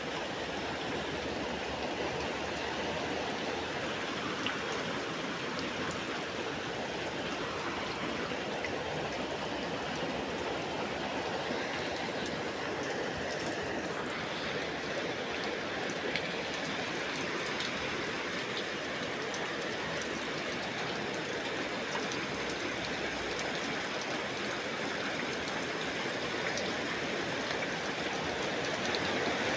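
Heavy rain pouring down steadily, a dense even hiss with faint scattered patter, growing a little louder near the end.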